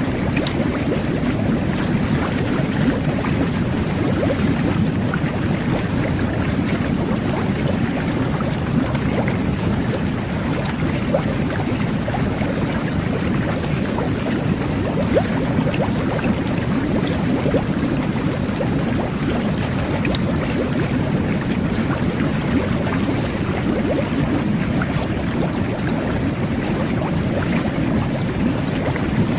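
Whirlpool jet bath running, its jets churning the bathwater into a steady, low rush of bubbling with small pops throughout.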